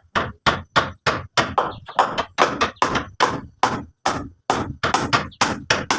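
Rapid, evenly spaced knocks of a tool striking something, about three blows a second.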